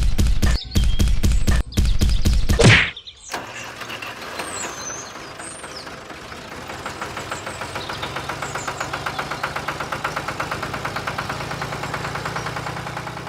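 Small DIY mini engine running with a rapid, regular knock, about six beats a second. The first three seconds are a loud, choppy low rumble.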